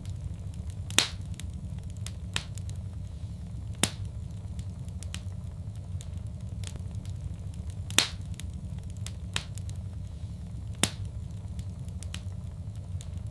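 Wood fire crackling in a fireplace: sharp pops and snaps every second or few, the loudest about four times, over a steady low rumble.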